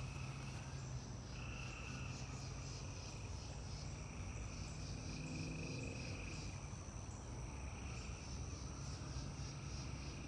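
Outdoor chorus of insects such as crickets: a continuous high-pitched trilling with a rapid, even pulse, and a shorter buzzing call that comes back every couple of seconds. A low steady hum lies underneath.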